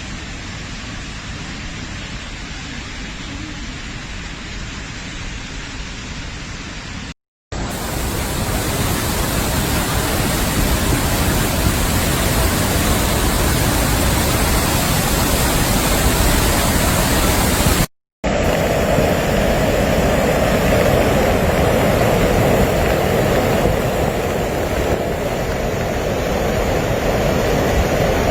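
Rushing flash-flood water, a loud, steady noise with no letup, broken by two brief dead gaps about seven and eighteen seconds in.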